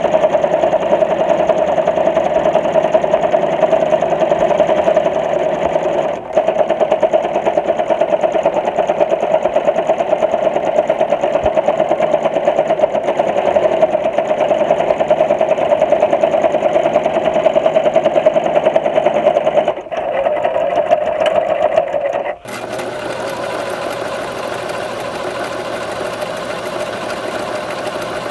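Sewing machine running at speed with a fast, even stitching rhythm, dipping briefly about six seconds in and again about twenty seconds in. About twenty-two seconds in it changes abruptly to a quieter, smoother, steadier run.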